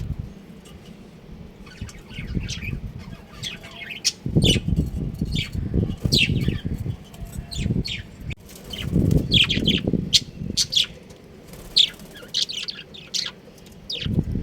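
A group of small cage birds chirping and twittering in short, high calls throughout, with several bursts of low rustling noise.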